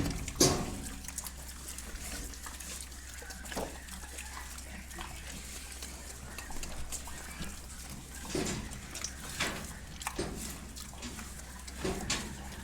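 Pig squalling: several short, sharp squeals spaced out over a few seconds, the loudest about half a second in, over a steady low hum.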